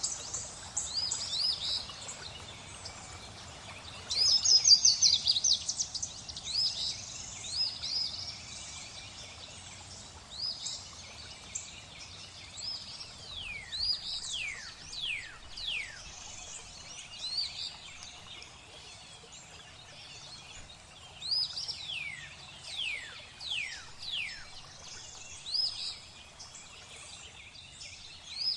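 Several songbirds calling over a steady hiss of flowing water, with a fast chattering trill about four seconds in and runs of quick downward-sliding whistles in the middle and again later on.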